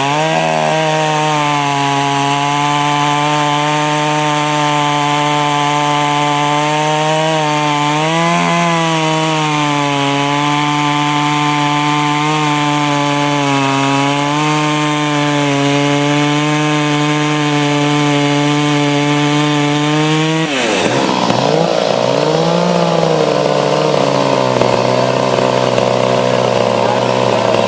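Poulan 5200 two-stroke chainsaw running steadily at high revs, with a brief dip about eight seconds in. About twenty seconds in, the revs drop sharply and the tone changes for the rest of the stretch.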